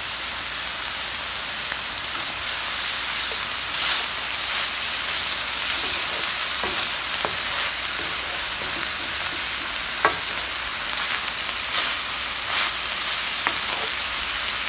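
Onion, garlic, peppers and vegetarian sausage sizzling steadily in oil in a paella pan as they cook down, with a few sharp clicks of a utensil stirring.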